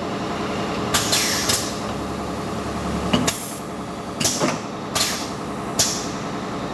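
Automatic wood drilling machine with auto-feed running with a steady motor hum, broken about six times by short, sharp clacks and hisses from its feed and drilling cycle.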